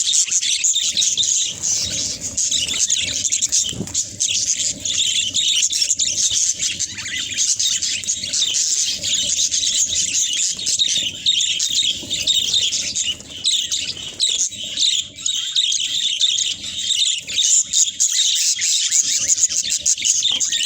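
A flock of budgerigars chattering and chirping, many birds warbling and squawking over one another.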